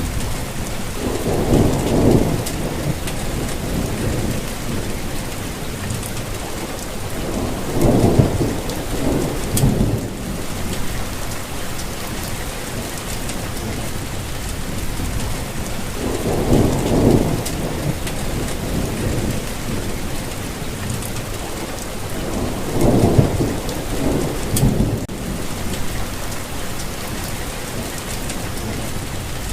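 Steady rain falling as an even hiss, with four low rolling rumbles of thunder spread through it, each lasting a couple of seconds.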